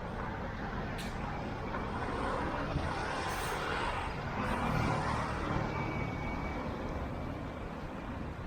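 Road traffic passing along a busy street, with a vehicle swelling louder as it goes by a few seconds in. There is a sharp click about a second in.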